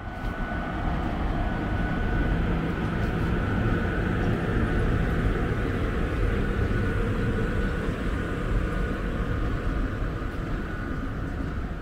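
Locomotive-hauled passenger train rolling past along the platform: a steady rumble of wheels on the rails with a thin steady high whine over it, fading in at the start.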